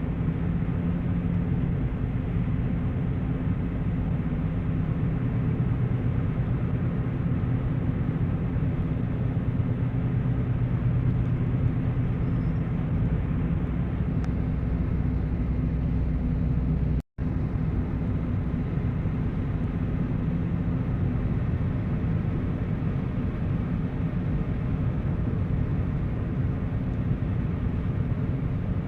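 Steady low vehicle engine rumble with road noise, continuous apart from a brief dropout to silence about 17 seconds in.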